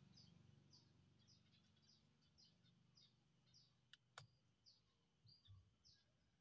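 Faint, quiet outdoor ambience: a bird giving short high chirps about twice a second, with two sharp clicks close together about four seconds in.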